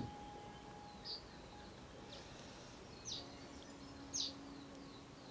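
Small birds calling: a few short, high, downward-sweeping chirps spaced a second or two apart over faint outdoor background noise. A single sharp click sounds at the very start.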